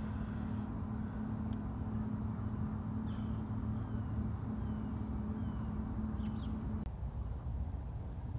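Small birds chirping, a few short falling calls and higher notes, over a steady low hum that cuts off suddenly near the end.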